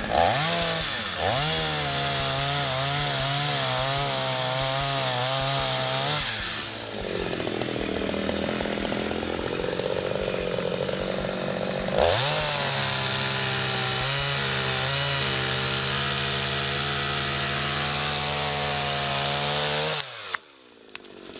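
Petrol chainsaw held at high revs, cutting into a tree trunk. Its revs sag for several seconds about six seconds in, rise again about halfway through, and the saw stops sharply near the end.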